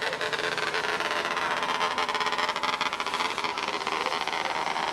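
Engines of several small racing cars running together on the track, their pitch rising and falling as they accelerate and lift.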